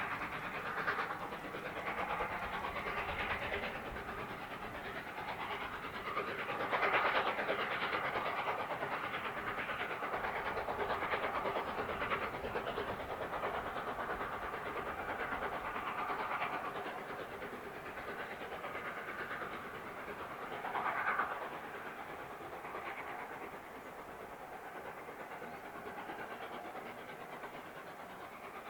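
Steam-hauled train running on the line: the carriages' wheels clatter over the rail joints, mixed with steam hiss, and there are louder swells every few seconds. The sound grows quieter over the last several seconds.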